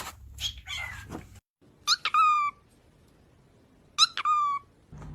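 A parrot giving two loud whistled calls about two seconds apart. Each is a couple of quick rising notes ending in a held, slightly falling tone. Softer chirps come in the first second.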